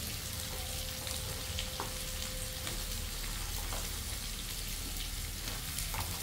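Sliced zucchini and bottle gourd sautéing in an aluminium wok: a steady sizzle with scattered small pops and crackles.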